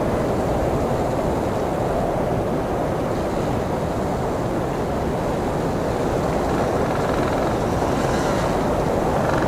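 Blizzard wind blowing steadily: a dense, even rushing noise with most of its weight low in pitch.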